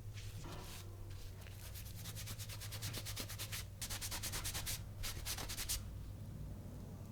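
Quick back-and-forth abrasive rubbing strokes by hand, like sanding, coming in short runs in the middle of the stretch, over a low steady hum.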